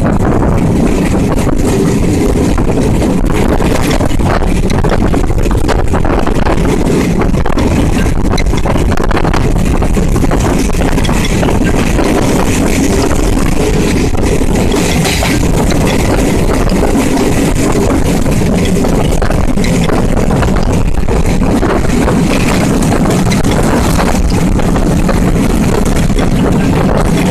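A passenger train running at speed, heard from on board: a steady, loud rumble of wheels on the rails with continual small rattles.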